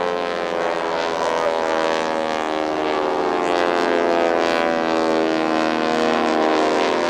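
Radial engines of four Stearman biplanes droning together in aerobatic flight, their pitch drifting slowly as the planes roll and pass overhead.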